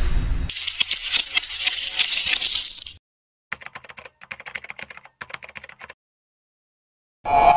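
Rapid keyboard typing clicks in two runs: a loud run lasting about two and a half seconds, then after a short pause a quieter run of about two and a half seconds. After about a second of silence, a loud new sound starts right at the end.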